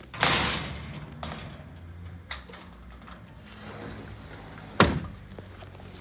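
A burst of clatter at the start, a low steady hum, and a single sharp knock nearly five seconds in.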